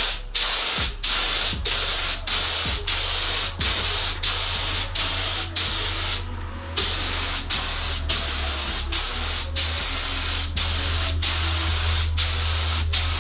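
Clear coat being sprayed onto a car bumper in a light first coat: a steady hiss in short passes with brief breaks between them, and a longer pause about six seconds in.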